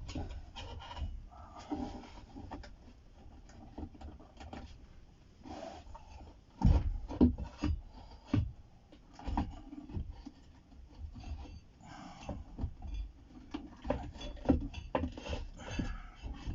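Hands handling the opened studio monitor and its amplifier board: irregular rubbing and scraping with scattered clicks and knocks. A few sharper knocks come about seven seconds in.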